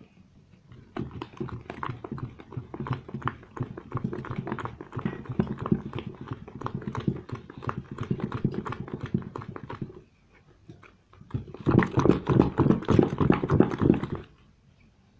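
Thick homemade liquid car-wash soap being stirred hard by hand, a fast run of wet, slapping strokes. The stirring goes on for several seconds, stops briefly, then picks up again louder near the end, working the added perfume into the mix.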